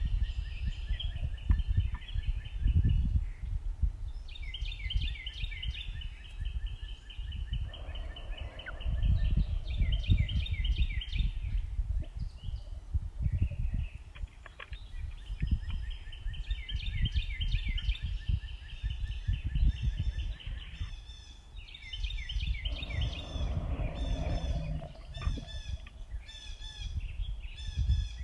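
Backyard songbirds calling in quick repeated runs of high chirps, with a lower-pitched call twice, about a third of the way in and again near the end, over a steady low rumble.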